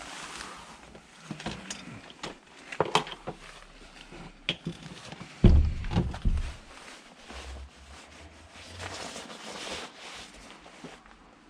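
Scrap being handled at the bins: several sharp knocks and clicks, then a heavy thump about five and a half seconds in, followed by rustling.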